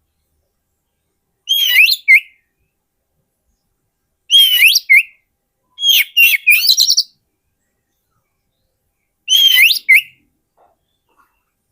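Oriental magpie-robin (kacer) singing: four short phrases of clear whistled notes that glide up and down, separated by pauses of one to two seconds. It is the kind of song recording played to lure wild magpie-robins.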